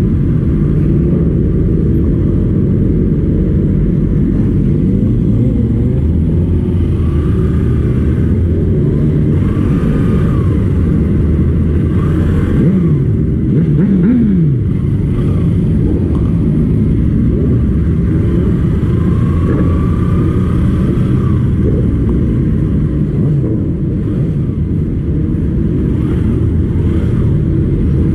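Motorcycle engine running under way, a steady rumble whose pitch rises and falls as the revs change, most sharply about halfway through.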